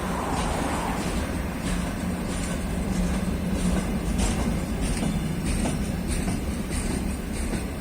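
Freight train wagons rolling past at speed, wheels clicking over rail joints about twice a second over a steady low rumble and hum.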